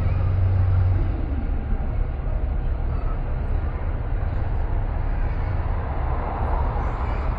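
A car driving on city streets: steady road and engine noise, with a low hum that is strong at first and drops away about a second in.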